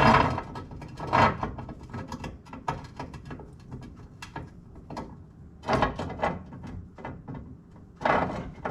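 Kitchen handling sounds: a run of clinks, knocks and scrapes from glass canning jars and utensils being moved about, with louder clatters at the start, about a second in, near six seconds and near the end.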